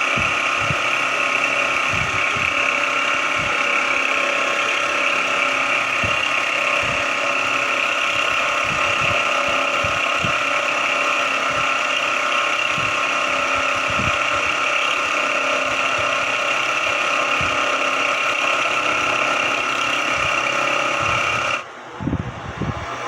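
Sodré SX2 mini mill-drill running: a steady mechanical whine with irregular low knocks underneath, dropping away about 22 seconds in.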